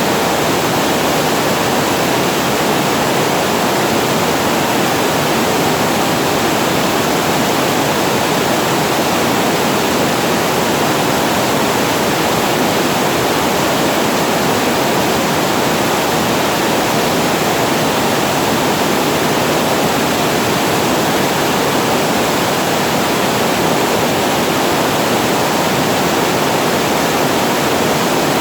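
Water pouring steadily over a small weir's spillway: a loud, unchanging rush of falling water.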